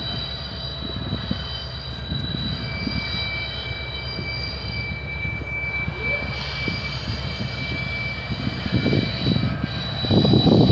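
Freight train led by EMD diesel locomotives rolling past, with a steady rumble and several high, steady squealing tones from the wheels. The rumble grows louder near the end as the locomotives come closer.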